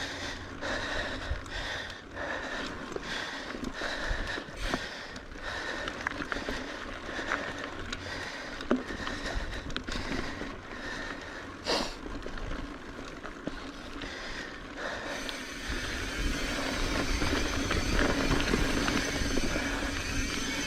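Mountain bike rolling down a rocky dirt trail: tyres on dirt with frequent knocks and rattles of the bike over rocks. About two-thirds of the way through, wind noise on the microphone grows louder.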